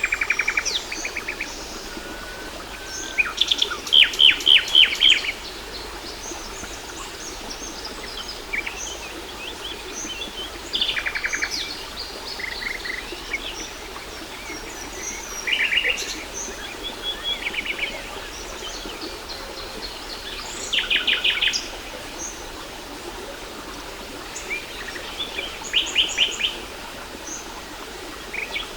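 Songbirds singing over a steady rush of falling water. About every five seconds one bird gives a loud, short trill of rapidly repeated high notes, with scattered smaller chirps in between.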